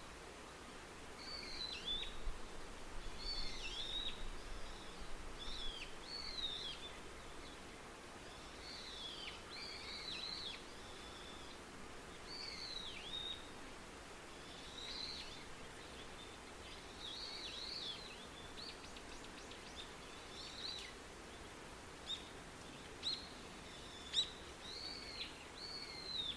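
Wild birds calling: a long series of short, high chirping notes over faint background hiss. The notes grow sparser and sharper in the last few seconds.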